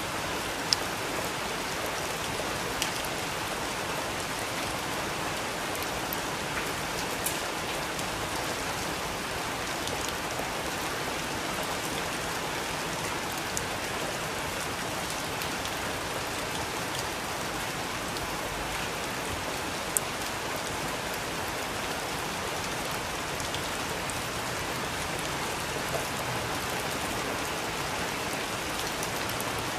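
Steady rain falling, an even hiss with occasional sharper single drips every few seconds.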